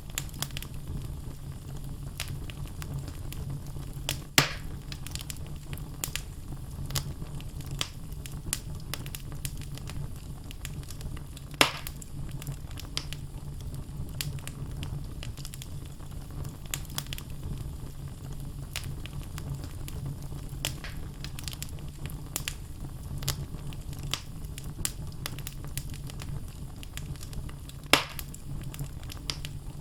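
Wood logs burning in a fireplace: a steady low rumble of flames with constant small crackles, and three louder, sharper pops from the logs spread through.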